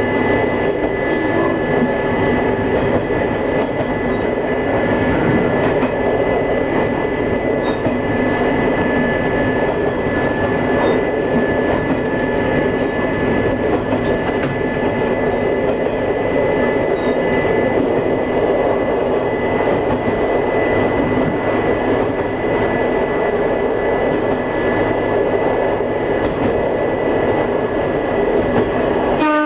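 Diesel railcar running along the line, heard from inside the car: a steady running noise with a constant high-pitched whine over it.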